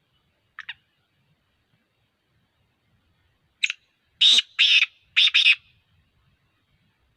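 Black francolin calling: a short note about half a second in, then a sharp note followed by four loud rasping notes in quick succession.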